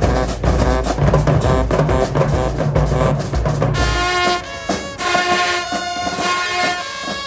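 High school marching band playing: drums and bass drum pounding under the horns, then about halfway through it switches abruptly to the brass section playing held chords with the drums dropping back.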